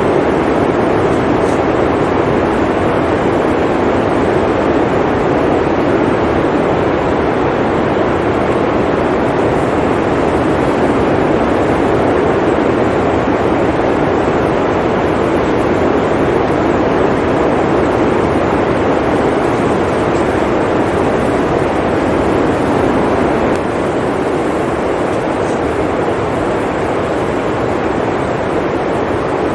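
Blizzard wind blowing steadily: a dense, even rush of noise with no distinct gusts or impacts, dropping a little in level a few seconds before the end.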